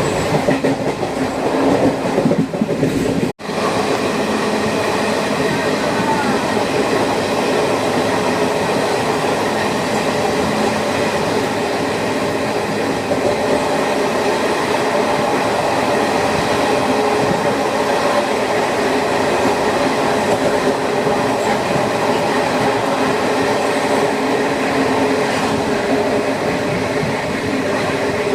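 Train running along the track: a steady noise of wheels on rails with some clickety-clack. There is a momentary dropout about three seconds in.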